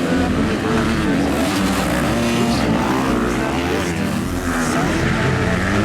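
Motocross motorcycle engines revving, their pitch rising and falling as the bikes accelerate and back off.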